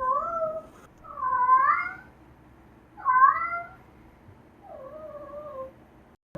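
American Shorthair kitten meowing again and again: a string of high meows, each under a second long, with short pauses between them.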